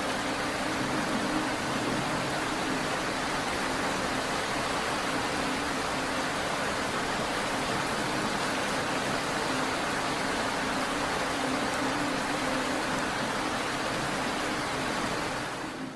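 Steady, heavy rain falling, an even wash of noise with a low steady hum underneath. The sound dips briefly near the end.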